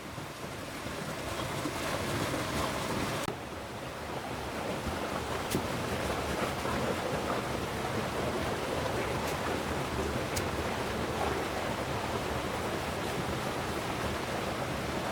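Steady wash of water noise outdoors, with a few faint clicks.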